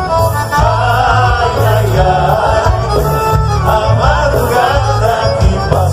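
Live band music: an upbeat dance song with a steady pulsing bass beat under a moving melody line, between sung verses.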